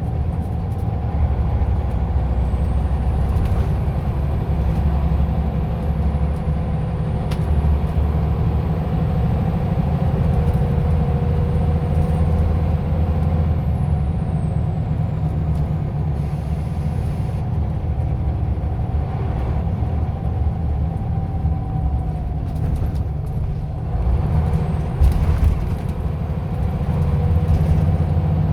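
Scania OmniLink I city bus running and driving, its engine giving a steady low rumble, with a faint high whine that rises and falls.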